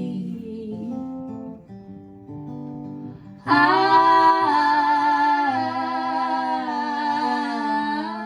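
Live acoustic folk song: quiet acoustic guitar picking, then about three and a half seconds in a sung note comes in loudly and is held over the guitar.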